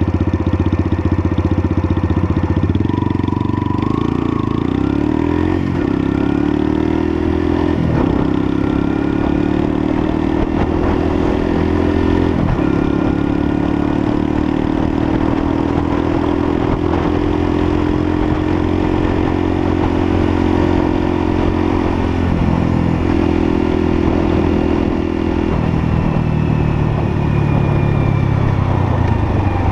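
Lexmoto LSM 125's 125cc single-cylinder engine running under way, its pitch climbing as the bike accelerates through the first several seconds, with brief dips at gear changes about 8 and 12 seconds in. Near the end the engine note drops lower as the bike eases off.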